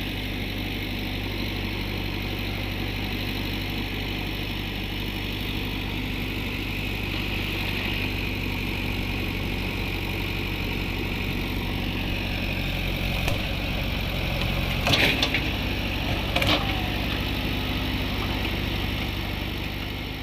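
A tractor engine running steadily at an even speed. A faint knock about two-thirds of the way in, then two louder sharp knocks a second and a half apart.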